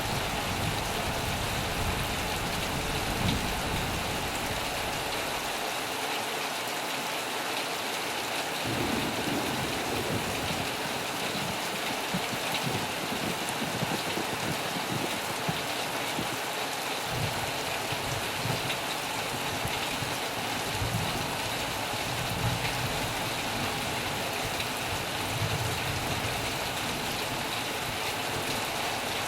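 Heavy rain falling steadily on a metal roof, a dense even patter. A low rumble comes and goes beneath it, fading out around six seconds in and returning after about seventeen.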